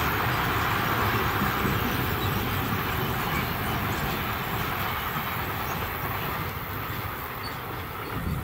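Long freight train of covered goods wagons running past at a distance, a steady rumble of wheels on rail that slowly fades as it moves away.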